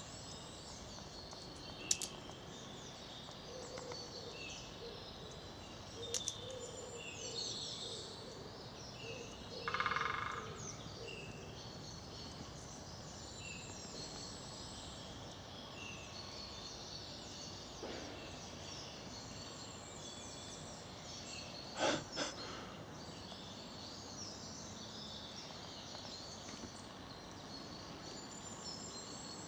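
Garden birdsong: several small birds chirping and singing against a quiet outdoor background. A few sharp knocks break in, the loudest about 22 seconds in, and there is a brief pitched call about ten seconds in.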